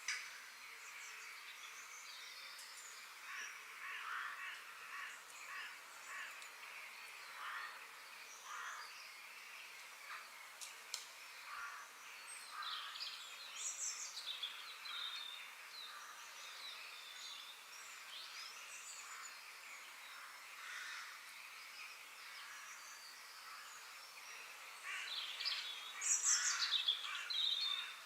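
Wild birds chirping and calling at scattered intervals over a steady natural background hiss, with a louder flurry of calls near the end.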